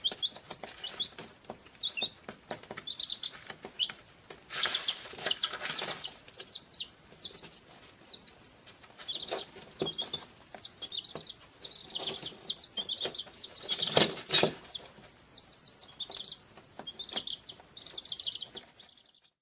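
Small birds chirping in many short, high, repeated calls, with louder rustling noises about five seconds in and again about fourteen seconds in.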